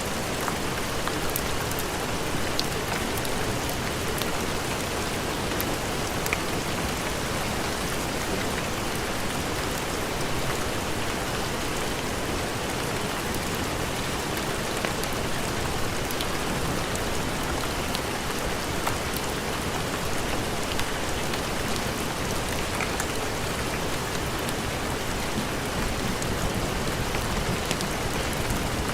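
Steady heavy rain: an even hiss with scattered faint ticks.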